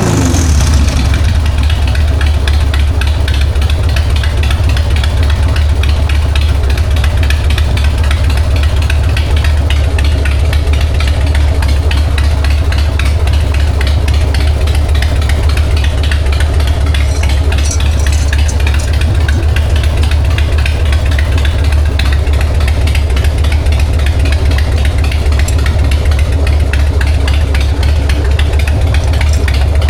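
1999 Harley-Davidson Sportster 1200's air-cooled V-twin engine idling steadily in neutral, with no revving.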